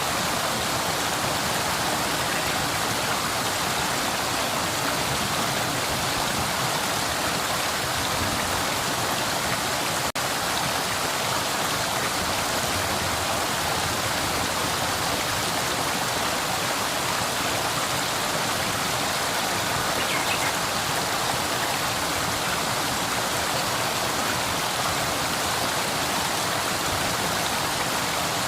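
River water flowing steadily, an even rushing sound weighted toward the higher pitches, with a momentary break about ten seconds in.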